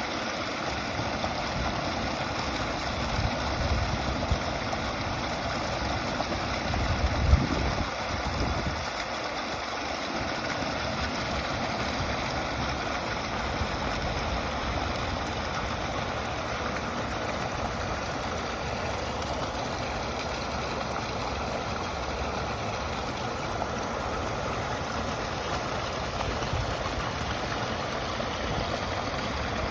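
Creek water running in a steady, continuous rush. Low rumbles in the first ten seconds, with a brief louder bump about seven seconds in.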